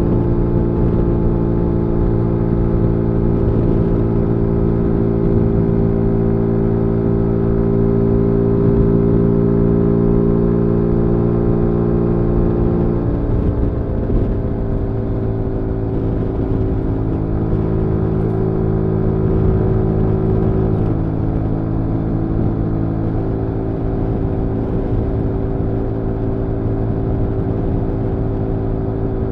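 2022 Zontes G1 125 scrambler's single-cylinder engine running steadily under way. About halfway through, the engine note drops, then holds steady again at the lower pitch.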